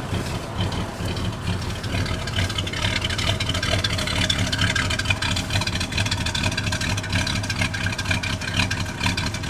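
Ford 351M V8 engine of a 1978 F-150 pickup idling steadily.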